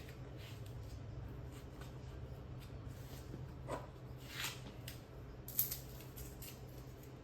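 Faint handling noises of repair work: a few soft scrapes and rustles and one sharp click a little past halfway, over a steady low hum.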